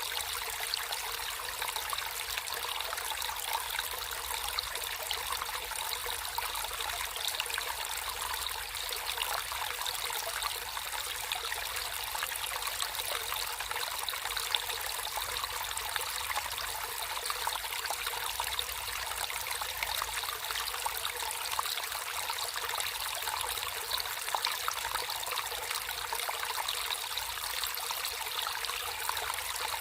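Natural running water trickling and babbling in a small stream, a steady unbroken flow with fine splashing detail.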